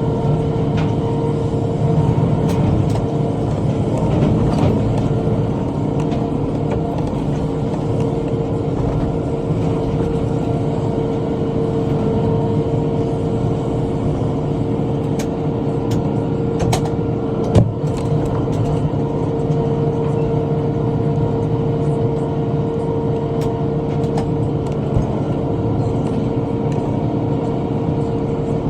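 Tractor engine running steadily under load while driving a bush hog (rotary cutter), with a few light clicks and one sharp knock about two-thirds of the way through.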